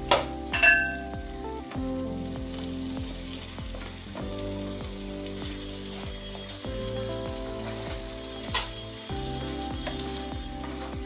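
Tiger prawns sizzling in a thick spiced coconut gravy in a hot kadai as they are stirred with a spatula. There are two sharp, ringing clinks of the spatula on the pan near the start and another knock near the end.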